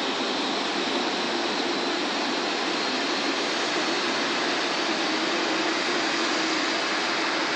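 Steady jet aircraft noise from a Boeing 737-800 during pushback: an even rushing hiss with a low steady hum under it, unchanging throughout.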